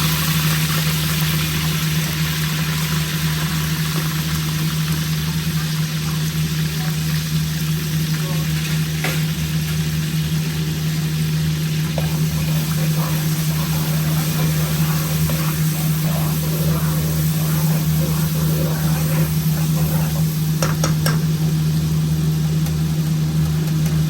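Garlic and whole spices frying and sizzling in hot oil in a pot, with a few clicks of a spoon against the pot now and then. A steady low hum runs underneath.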